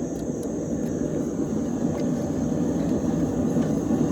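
A blacksmith's forge running with a steady, jet-engine-like roar that slowly grows louder, with a few faint ticks over it.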